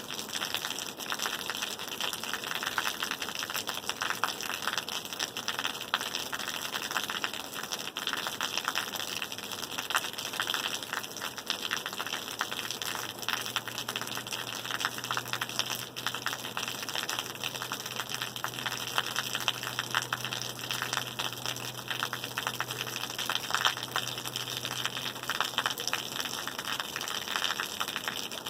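Steady rain falling, a dense crackling patter of drops. A faint low hum comes in about halfway through and fades near the end.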